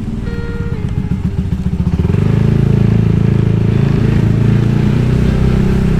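Motorcycle engine running under the rider, heard close up. It pulses at low revs at first, then grows louder and steadier from about two seconds in.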